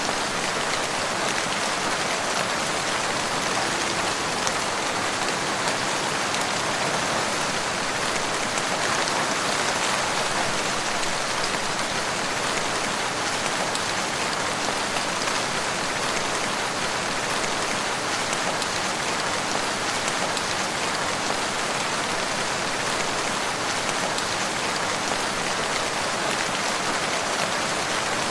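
Steady rain falling on a surface: an even hiss with a few faint ticks here and there.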